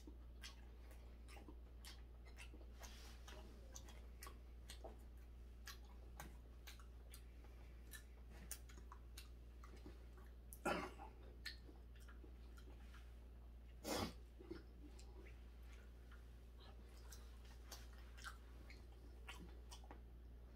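Faint chewing and mouth clicks of someone eating chewy raw hairtail sashimi, with two louder smacks about 11 and 14 seconds in. A low steady hum runs underneath.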